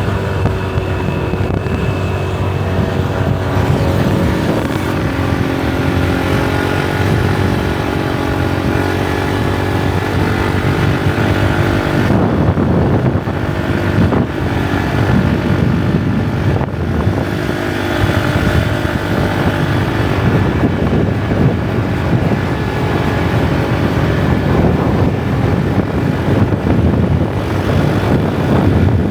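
Motorbike engine running steadily while riding along a highway, with wind rushing over the microphone.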